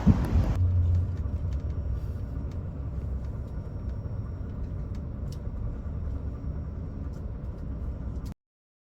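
Steady low rumble of a bus on the road, heard from inside, after a brief burst of wind noise that cuts off about half a second in. The sound stops abruptly near the end.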